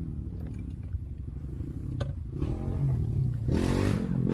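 Motorcycle engine running at low speed over rough ground, with a single sharp knock about two seconds in and the engine note rising briefly near the end.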